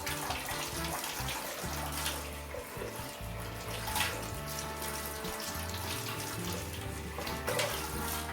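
Kitchen tap running as a portobello mushroom is rinsed under the water.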